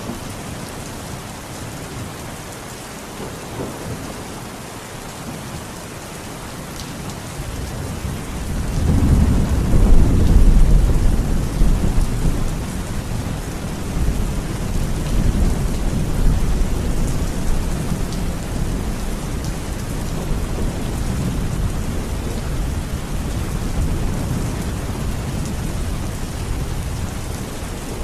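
Steady rain falling, with a low roll of thunder that swells about a third of the way in, is loudest briefly, then rumbles on and slowly fades.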